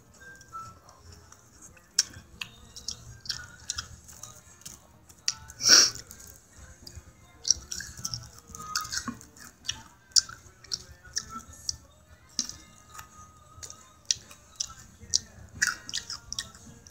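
Close-up chewing of fast food: a steady run of wet mouth clicks and smacks, with one louder, noisier burst about six seconds in.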